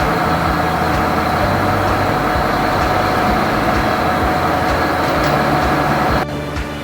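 Heavy machinery running steadily: a low engine drone with short knocks and clatter over it, breaking off abruptly about six seconds in.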